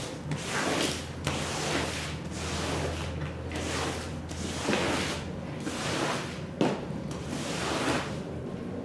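Rug being scrubbed or squeegeed during washing: repeated swishing strokes, a little faster than one a second, over a steady low machine hum.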